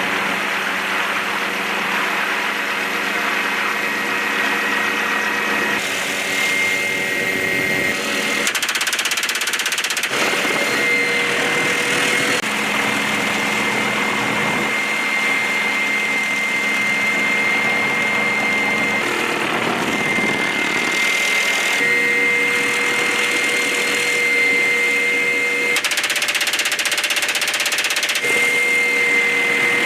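Helicopter engines running with a steady high-pitched turbine whine over the machine noise, the mix changing abruptly every few seconds as the footage cuts between shots.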